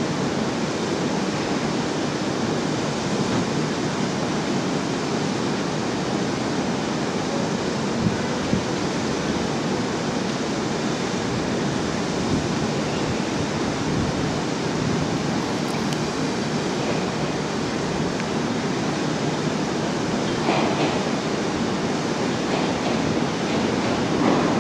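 A steady, even rushing noise as a JR East 701 series electric train approaches slowly in the distance, with a few soft rail sounds near the end.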